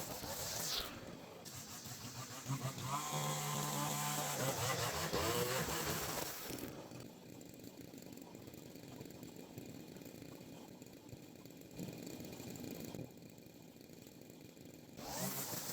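Small petrol engine of a handheld garden power tool running, louder and shifting in pitch a few seconds in, then dropping back to a quieter, steadier run after about six seconds.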